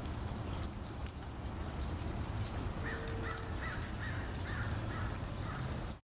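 A bird calling a quick run of about seven short notes, starting about three seconds in, over a steady low rumble of background noise.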